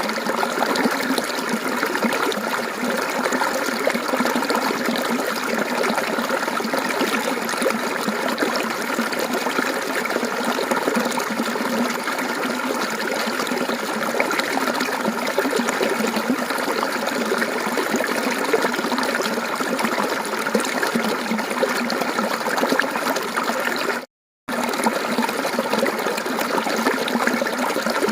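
Mountain stream water flowing and babbling over rocks in a steady, even rush. The sound cuts out completely for about half a second a little before the end.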